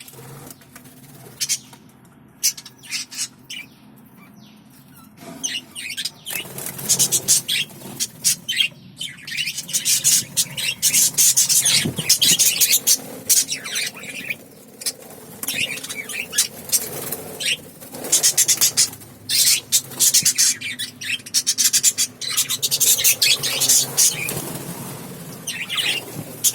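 Small pet parrots chirping and chattering, a few scattered calls at first, then about six seconds in a dense, rapid, high-pitched chatter that keeps on.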